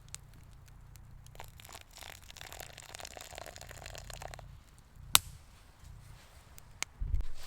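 Crinkling, tearing sounds of something being handled for a few seconds, then a sharp click and a dull thump near the end.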